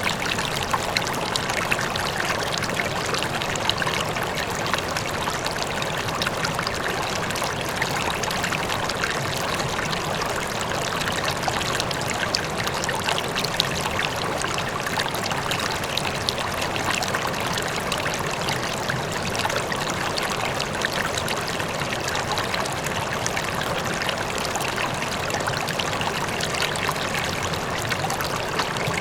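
A river flowing steadily, with the splashing and trickling of water over stones and a faint waterfall behind.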